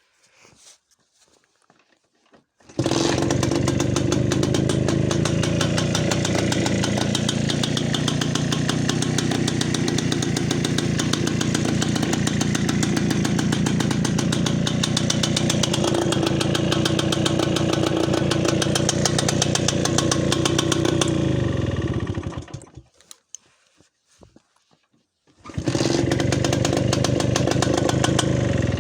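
Tula motorcycle's two-stroke engine catches about three seconds in and runs steadily for around twenty seconds, then dies away. It is started again a few seconds later and runs on.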